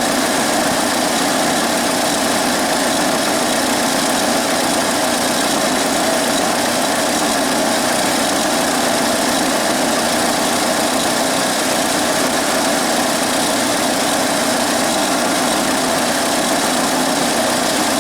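GM Iron Duke 2.5L four-cylinder engine idling steadily, warmed up, with a slight intermittent misfire that the owner puts down to the ignition.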